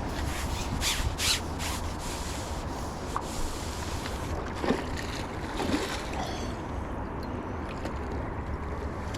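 Water sloshing and splashing at the bank, the kind made by a hooked fish being drawn in towards the net, over a steady hiss. There are a few sharp knocks or rustles in the first two seconds.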